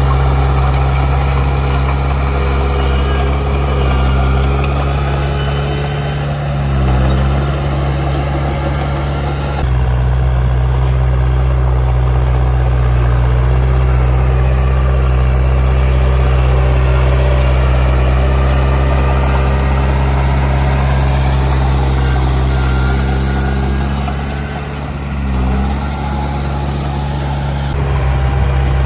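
Heavy diesel engine of earthmoving machinery running steadily, its speed dipping briefly twice, about a quarter of the way in and again near the end.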